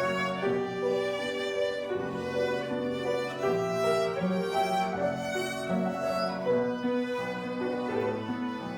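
A violin played by a young child, a slow melody of held notes, with lower accompaniment notes sounding beneath it.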